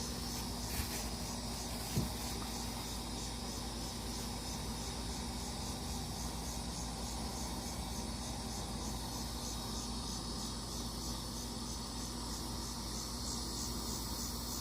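Insects chirping in a steady high-pitched rhythm, about two chirps a second, over a low background hum, with one short click about two seconds in.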